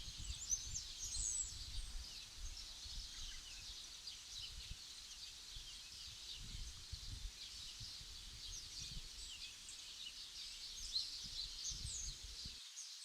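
Many small birds chirping and twittering continuously in quick, high calls, over a low gusty rumble that cuts off suddenly near the end.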